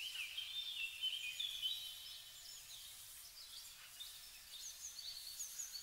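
Birds chirping faintly: short high notes repeated in quick runs, over a light hiss of open-air ambience.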